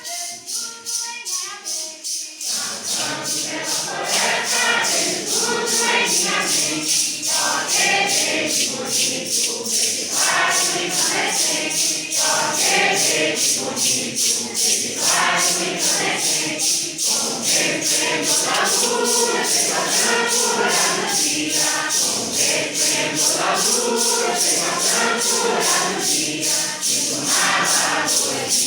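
Congregation singing a Santo Daime hymn together in Portuguese, with maracas shaken on a steady beat; the full group of voices comes in about two seconds in.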